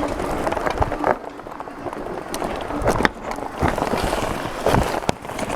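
Irregular knocks and scuffs, like footsteps moving over rough ground, over a steady rushing noise.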